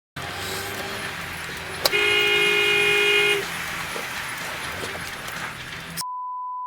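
Car horn honking, one held blast of about a second and a half starting just before two seconds in, preceded by a sharp click, over steady traffic and engine noise heard from inside a car. Near the end a steady beep tone replaces the sound briefly, a censor bleep.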